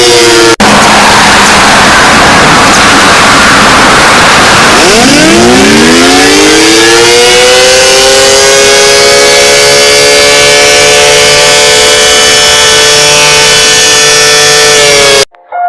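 Civil defense siren, very loud: a falling tone cuts off about half a second in and is followed by a stretch of hiss. About five seconds in the siren winds up from a low pitch to a steady high wail, holds it, and cuts off suddenly near the end.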